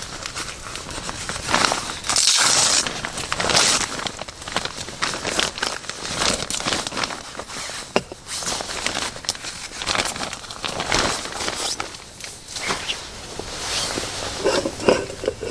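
Irregular rustling, crinkling and scuffing handling noises with scattered sharp clicks.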